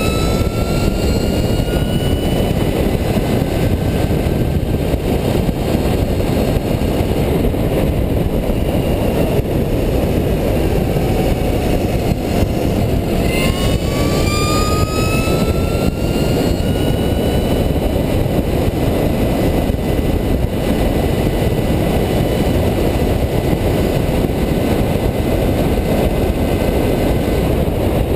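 Heavy wind noise on the microphone at racing speed, over the thin whine of a scratch-built electric bicycle's motor. The whine rises in pitch near the start and again about halfway through as the bike accelerates, then holds steady.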